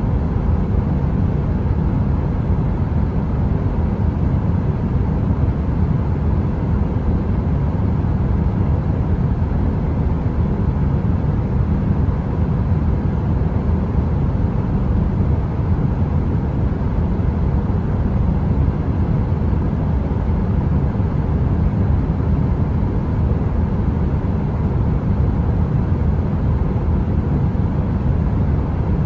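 Heater white noise: a steady, deep rumbling noise weighted toward the bass, like brown noise, with a faint steady hum on top and no crackle.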